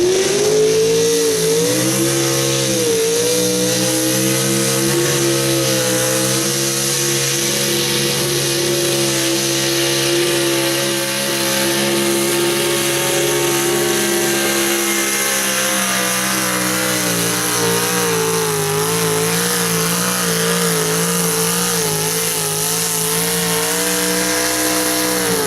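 Super stock two-wheel-drive pulling truck's engine held at high revs through a pull, climbing in the first couple of seconds and then staying nearly steady with small wavers in pitch.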